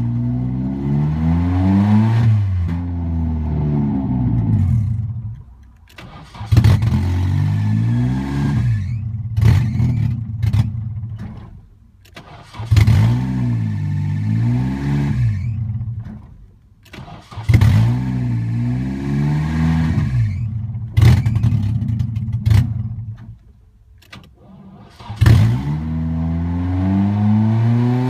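Nissan KA24DE 2.4-litre four-cylinder engine catching, revving up and down, then cutting out, about five times in a row. The owner's fault is that it dies when the throttle is pressed.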